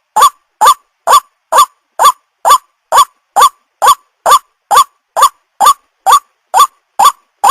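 White-breasted waterhen (ruak-ruak) calling, a short rising note repeated steadily about twice a second.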